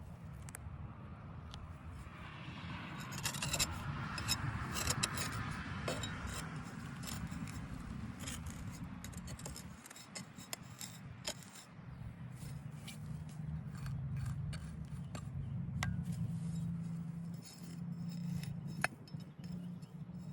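Hand-tool scraping with scattered light clicks and clinks, the scraping strongest a few seconds in, over a steady low noise.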